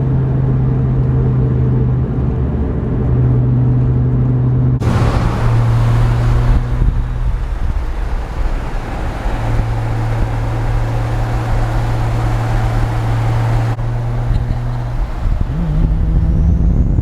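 Car engine droning steadily at cruising speed, its pitch shifting slightly a few times. A hiss of road and wind noise comes in for several seconds in the middle.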